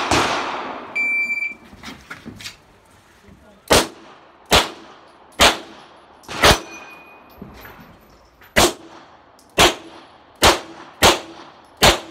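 Shot timer beeping once after "stand by", then a CZ Shadow 2 9mm pistol firing nine shots in irregular strings of one to three, as the shooter engages targets through a practical-shooting stage. A loud bang sounds right at the start, before the beep.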